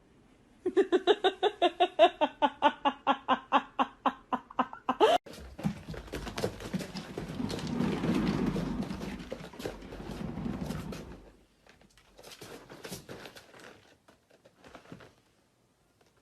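An animal's rapid, pulsed call, about five pitched pulses a second for some four seconds, ending on a rising note. It is followed by rustling and scattered knocks.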